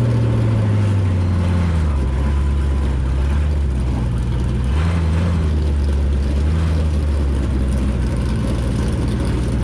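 Crown Victoria race car's V8 engine running at low revs, its pitch dropping over the first couple of seconds and then lifting briefly a few times.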